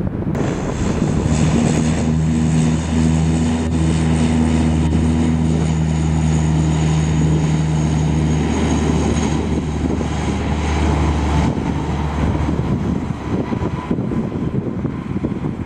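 Jetstar airliner's engines running loudly and steadily, a low drone carrying several steady humming tones that fade out about eleven to twelve seconds in, with wind noise on the microphone throughout.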